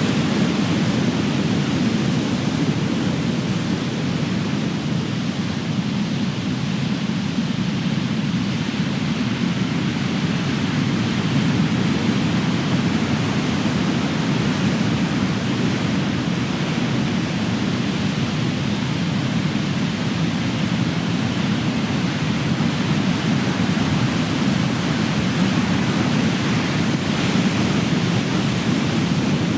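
Big ocean waves breaking as surf: a continuous low rushing rumble that rises and falls only slightly.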